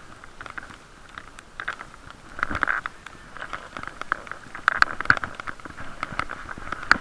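Riding noise muffled by a sealed waterproof camera case: a steady boxy hiss with irregular clicks and knocks scattered through, busier about two and a half seconds in and again near the end.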